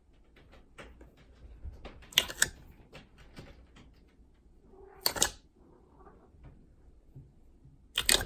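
Slime being kneaded by hand: a run of small sticky clicks and crackles, with louder pops about two seconds in, at about five seconds, and near the end.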